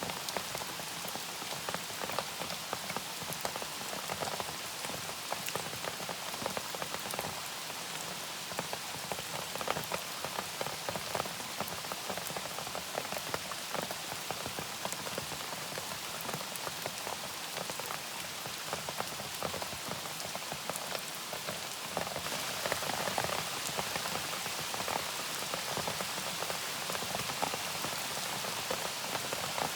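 Steady rain falling, with many separate drops pattering on surfaces. It grows a little heavier about two-thirds of the way through.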